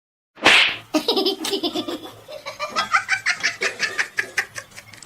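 A sudden short noisy burst, then a person laughing in rapid repeated bursts, about four or five a second.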